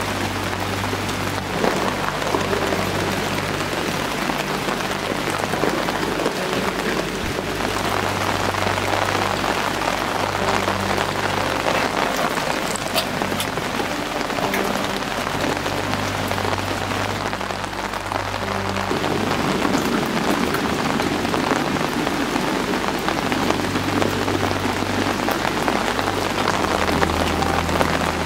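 Steady rain falling, a dense even patter with no pauses.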